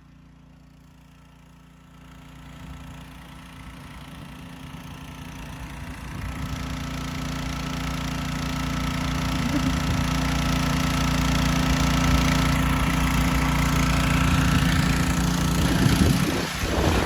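An engine running steadily, growing louder over the first several seconds and then holding level.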